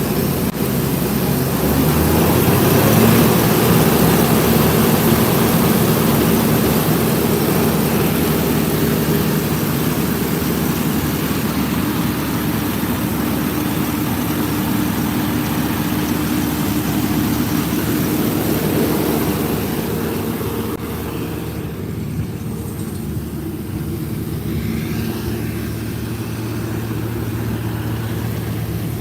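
Combine harvester threshing maize: a steady engine drone under a dense hiss of machinery and crop noise. The hiss and overall level ease about two-thirds of the way through while the engine keeps running.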